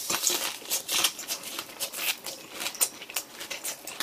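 Close-up chewing of a mouthful of crispy fried pork cutlet with kimchi and pickled radish: irregular crunching crackles, several a second.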